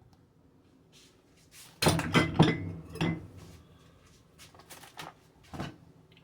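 Kitchenware clattering and clinking: a loud burst of knocks about two seconds in as a pan and dishes are handled, then a few lighter clinks.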